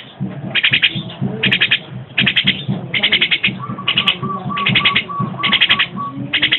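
Pet bird calling over and over, short rasping calls a little more than one a second, with a thin held whistle in the middle.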